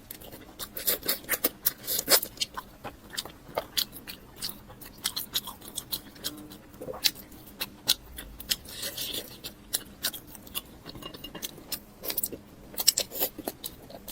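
Close-up eating sounds: chewing and mouth smacks with many short, irregular crisp clicks.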